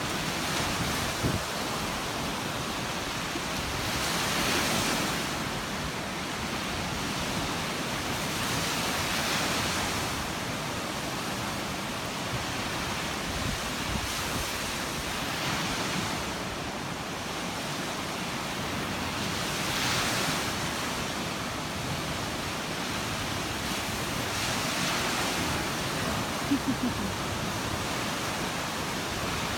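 Surf washing in: a steady rush of waves that swells every four to five seconds.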